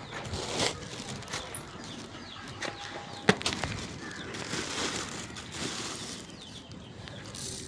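Rustling and clicking of goats feeding on fodder, with one sharp click about three seconds in and small birds chirping in the background.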